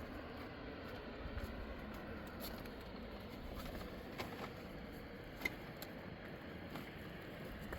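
Steady rushing noise with a few faint sharp clicks, a little past four seconds in and again about a second later.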